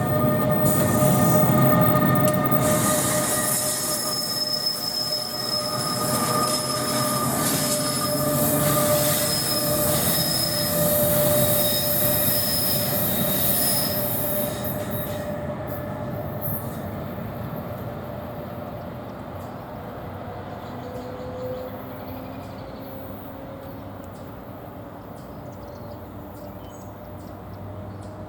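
Electric commuter train rolling through a curve, its wheels squealing in steady high tones over the rumble of the cars. It is loud for about the first half, then fades steadily as the train draws away.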